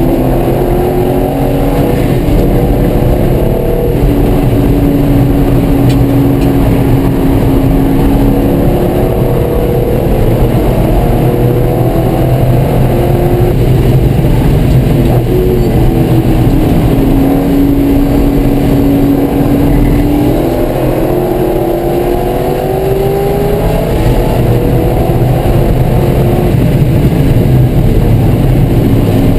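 Chevrolet Corvette C5 Z06's LS6 V8, heard from inside the race-prepared cabin at full racing pace. Its pitch climbs through each gear and drops at upshifts and braking, over and over.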